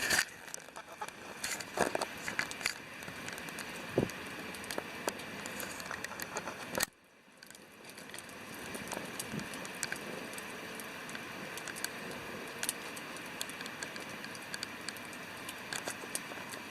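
Wood campfire crackling with scattered sharp pops over the steady rush of a river. About seven seconds in, the sound drops away briefly, then comes back.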